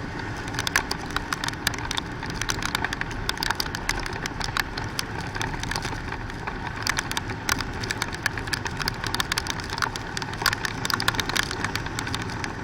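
Heavy rain, with raindrops striking the microphone as many sharp clicks, over the steady running of a Hero Splendor motorcycle's engine.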